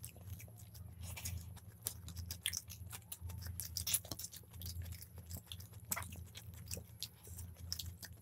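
Chewing and wet mouth sounds of people eating chicken biryani by hand: a run of small irregular clicks and smacks over a steady low hum.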